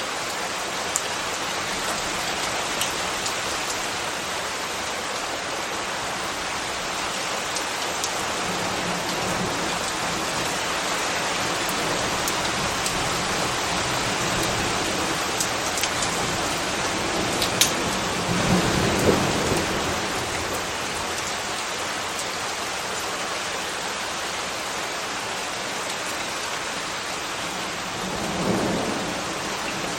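Steady rain falling, with scattered sharp drip ticks. A low rumble swells about eighteen seconds in, and a shorter one comes near the end.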